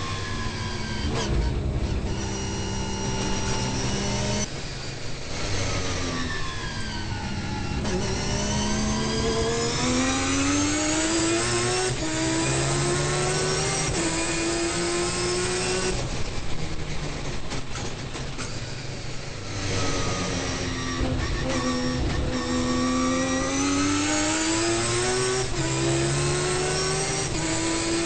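Turbocharged 20B three-rotor rotary engine of an RX-7 race car, heard from inside the car at racing speed. The revs climb through the gears with quick upshifts, then fall twice as the car slows for corners, with crackles while the revs drop.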